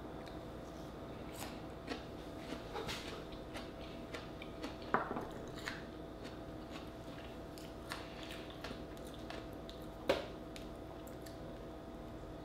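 A person chewing and biting food close to the microphone, with faint mouth sounds and scattered small clicks. A sharper click comes about five seconds in and another about ten seconds in.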